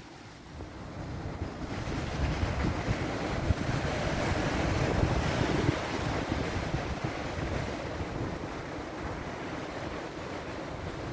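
Sea waves washing in, with wind buffeting the microphone; the surf swells to its loudest around the middle and then eases off.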